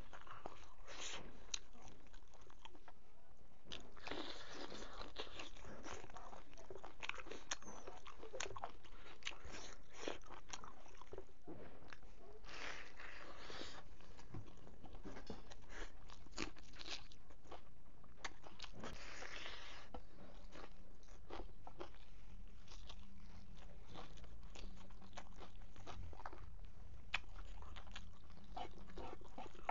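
A person chewing and crunching a mouthful of pork, rice and greens close to the microphone, with irregular crunches and clicks that thicken into denser spells now and then.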